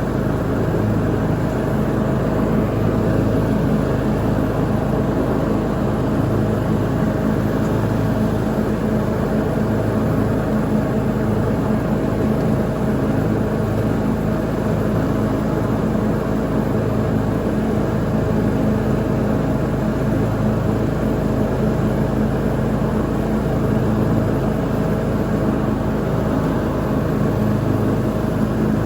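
Lawn mower engine running at a steady speed while mowing, an even drone with no change in pitch or level.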